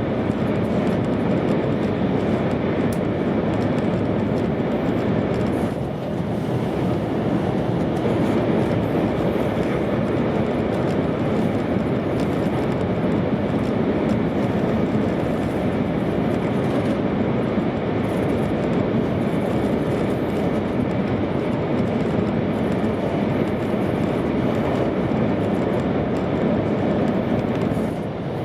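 Steady running noise inside an E2 series Shinkansen car at speed: an even rush and rumble of the train, dipping briefly about six seconds in.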